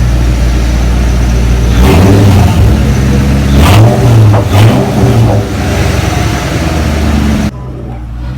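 2004 Ford Mustang GT's 4.6-litre V8 running, blipped several times from about two seconds in before settling back to a steady idle. The sound drops away abruptly near the end.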